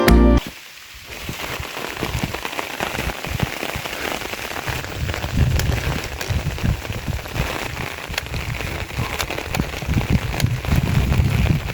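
Background music cuts off right at the start, then rain patters steadily, with scattered sharp drop ticks and irregular low rumbles underneath.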